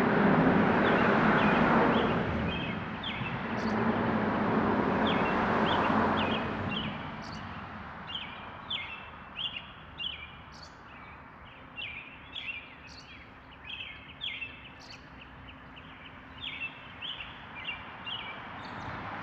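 Traffic on the road bridge overhead, an even rushing noise that swells and fades over the first several seconds, then birds chirping in many short, quick notes over quieter background noise.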